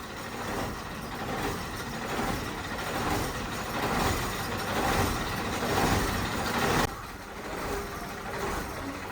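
A truck running, its noise swelling and easing over several seconds, then cutting off abruptly about two thirds of the way through to a quieter background of the same kind.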